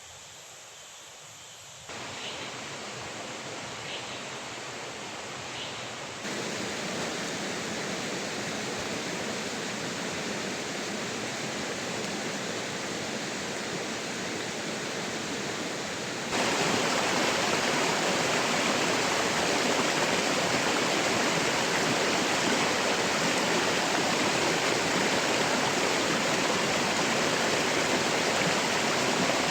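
Steady rushing of water, getting louder in sudden steps about two, six and sixteen seconds in. Three faint short chirps come in the first few seconds.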